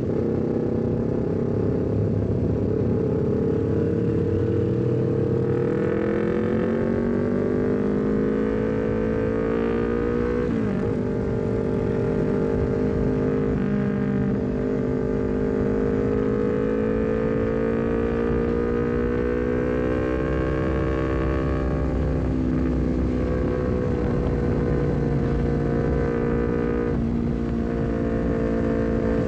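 Honda CBR250RR parallel-twin engine through a full-system aftermarket exhaust with a short Leovince GP Corsa carbon silencer, heard from on board while riding: the note climbs steadily under acceleration, breaks sharply for a gear change about ten seconds in, then holds at a steady cruise with small rises and dips.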